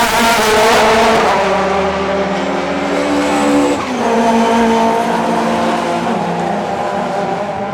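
Classic DTM touring car engines racing past at high revs, with a gear change about four seconds in and the sound fading near the end.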